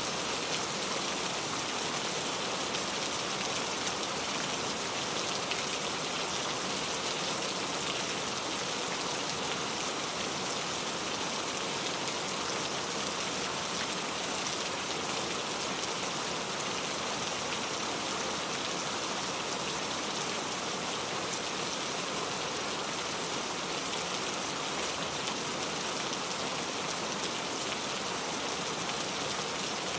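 Steady rain falling and pattering on surfaces, an even hiss without a break.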